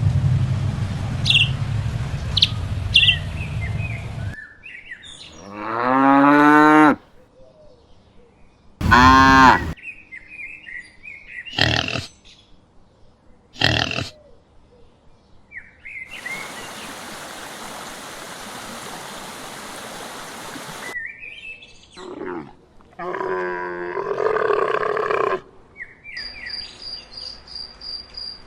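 A run of separate farm-animal calls: several drawn-out calls, the first rising in pitch, and a few short ones. Wind noise and a few high chirps come first, and crickets chirp in a steady rhythm near the end.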